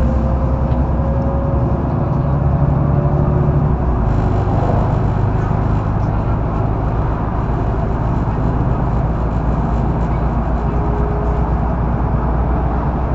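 Mercedes-Benz Citaro O530 articulated intercity bus under way, heard from inside: a steady drone of diesel engine and road noise, its pitch rising slowly over the first few seconds, with the engine note changing about four seconds in.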